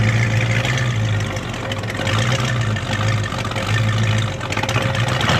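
Buick GS's V8 engine running near idle as the car rolls slowly away. Its low exhaust rumble swells and dips every second or so.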